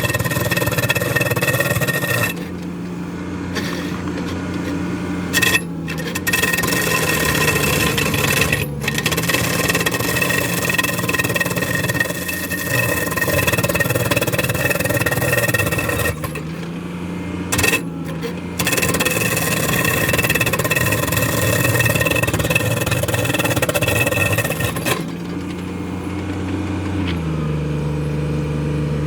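Mini excavator with a drum-type surface-milling attachment grinding and chipping a concrete surface over its running diesel engine. The grinding breaks off for a second or two several times and stops about four seconds before the end, leaving the engine running alone.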